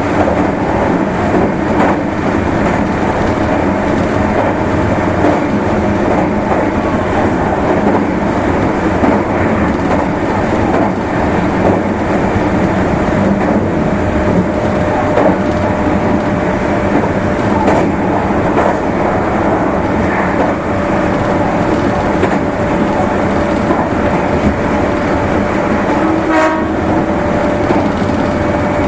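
Meitetsu Nagoya Main Line limited express train running at speed: a steady rumble of wheels on rail with a constant hum. A short pitched tone sounds near the end.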